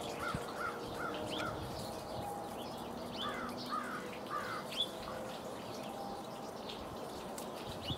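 Birds chirping in two quick runs of short calls, one at the start and one about three seconds in, over steady outdoor background noise.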